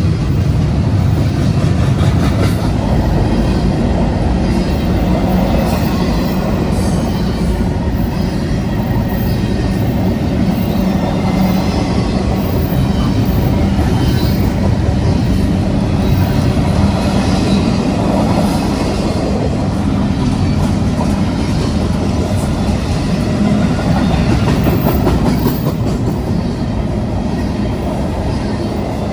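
Freight train passing at speed, a steady rumble of steel wheels rolling on the rails.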